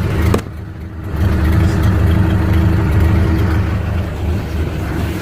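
1929 Ford Model A's four-cylinder flathead engine idling steadily, with a sharp click early on and a brief quieter stretch before it comes back up about a second in.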